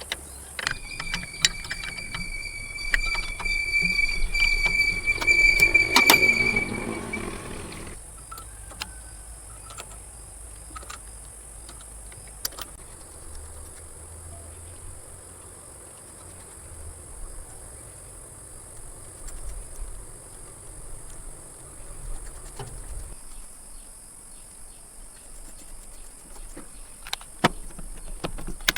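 A small motor whines steadily at a high pitch for about seven seconds, then stops; scattered clicks and taps follow.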